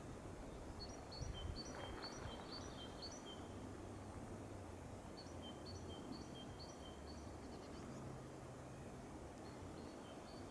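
A songbird singing a repeated two-note phrase, a higher note then a lower one, about three times a second in three short bouts, over a faint steady low rumble.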